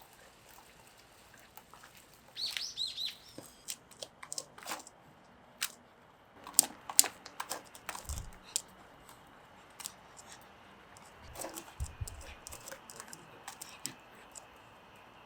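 A small bird chirps a quick run of short, falling notes about two and a half seconds in. Scattered sharp clicks and taps follow, with a couple of low thuds.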